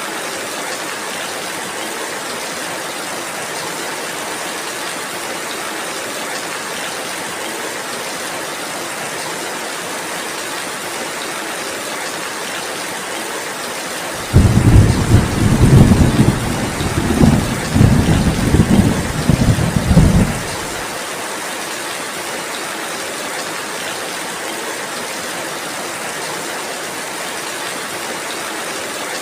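Steady rainfall, with a loud low rumble of thunder that starts suddenly about halfway through and lasts about six seconds before dying away.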